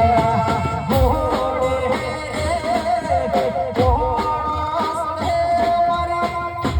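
Live garba music played through a sound system: a wavering, sustained melody over a steady, evenly repeating drum beat.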